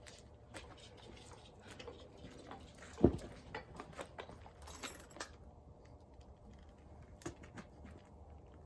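A chalk line snapped once against the lumber about three seconds in, a single sharp slap that is the loudest sound, amid light clicks and rattles of handling.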